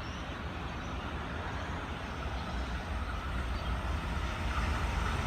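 Sydney OSCAR (H-set) electric train approaching to pass through the station without stopping: a low rumble that grows steadily louder, with a higher whine coming in near the end.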